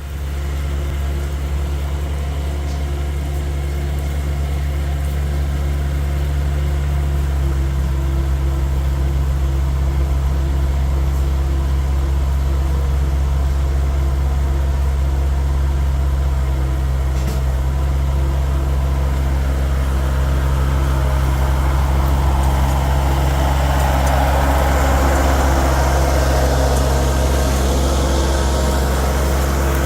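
Tractor engine running steadily at a constant speed, growing louder and noisier over the last third.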